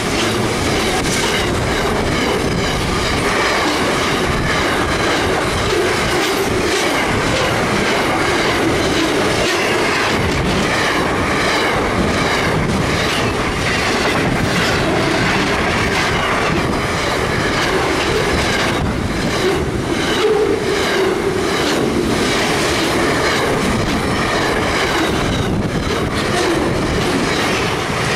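Container wagons of a long freight train rolling past at speed close by: a steady loud rush of steel wheels on rail with a regular rhythmic clicking of the wheels.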